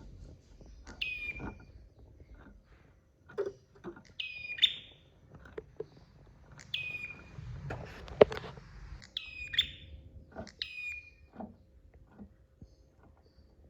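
Prenjak (prinia) calling: five short, sharp calls, each dropping in pitch, spaced a couple of seconds apart. Scattered clicks and ticks run between them, with one loud click about eight seconds in.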